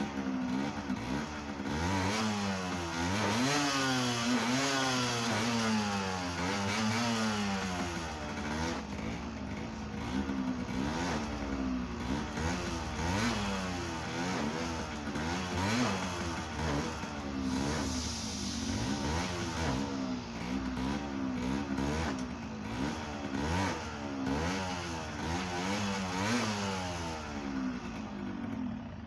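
Yamaha DT125's single-cylinder two-stroke engine being revved repeatedly, its pitch rising and falling every second or so.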